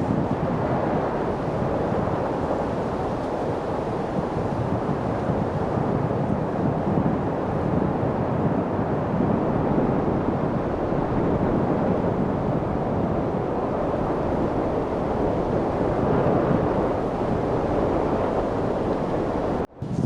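Steady wind noise: an even, low rushing sound with no distinct events, which drops out for an instant near the end.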